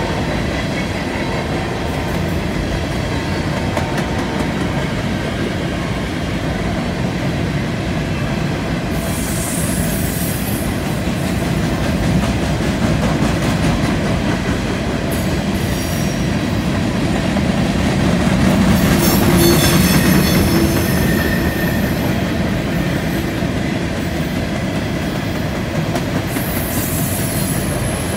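Covered hopper cars of a freight train rolling past on a curve: a steady rumble and clatter of steel wheels on rail, with bursts of high-pitched wheel squeal as the flanges grind through the curve. The squeal starts about nine seconds in and comes back several times, longest around twenty seconds in, where the rumble is also loudest.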